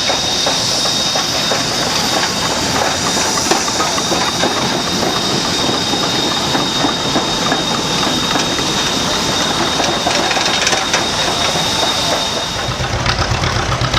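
Steam machinery running: a steady hiss of steam with dense mechanical clatter. About a second before the end it changes to a low, even engine beat, an engine idling.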